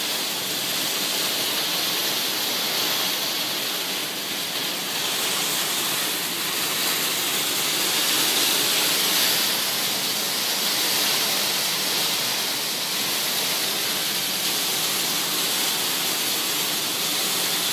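Heavy rain falling on corrugated metal roofs and pouring off their edges in streams: a steady, even rush of noise.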